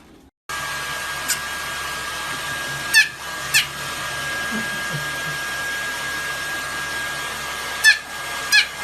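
Hair dryer running steadily with a thin whine in its noise, starting suddenly about half a second in. Over it come four short, high, falling squeals, two about three seconds in and two near the end.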